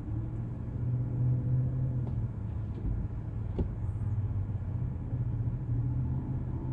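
Motor vehicle running with a steady low hum.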